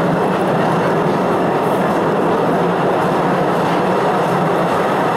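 Postojna Cave tourist train running along its track, a steady rumble and rattle of wheels and open passenger cars heard from on board.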